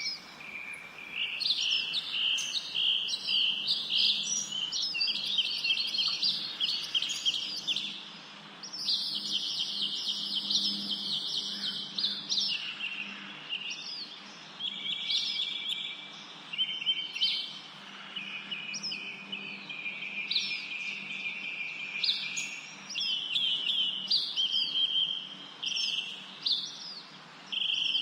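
Songbirds singing: a dense stream of high, rapid chirps and trills, several birds overlapping, with a brief pause about eight seconds in.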